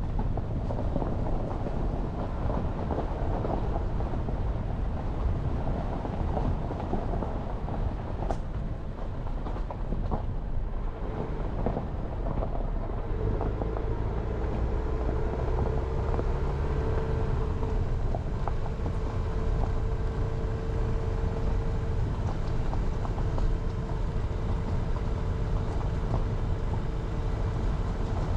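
Jeep Renegade driving on a mountain forest road: steady engine and tyre rumble. From about halfway through, a steady engine tone comes in above the rumble.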